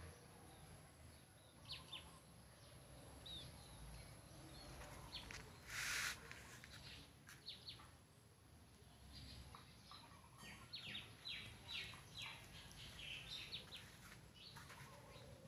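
Faint, scattered bird chirps, with a thin steady high-pitched tone behind them and one brief hiss-like burst about six seconds in.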